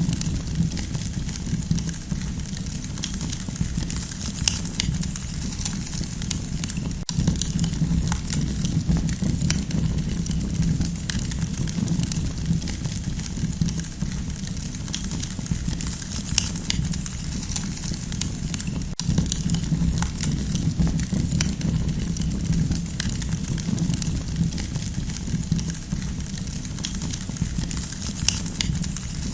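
Campfire burning, with a steady low rumble under frequent, irregular crackles and pops.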